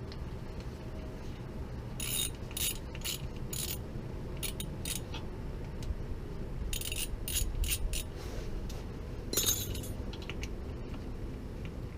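Ratchet wrench clicking in several short runs of quick clicks, with pauses between them, while fasteners are worked on a Honda Cub engine.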